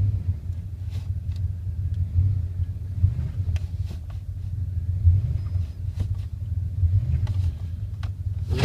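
1999 Dodge Ram 1500's 5.2-litre Magnum V8 idling steadily, with a few faint clicks over it.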